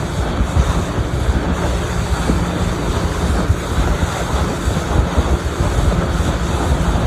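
Wind buffeting the microphone on a moving boat: a steady rush with a heavy, uneven low rumble.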